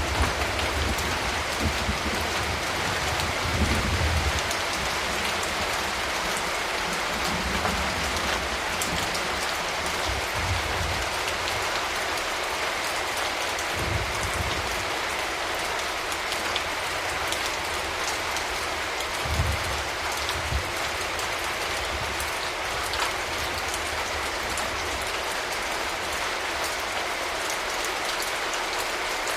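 Steady rain falling, with a few brief low rumbles of thunder at intervals.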